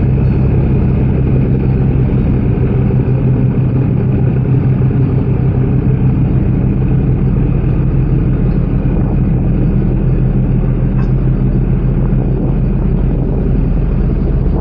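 Car ferry's diesel engines running with a steady low drone.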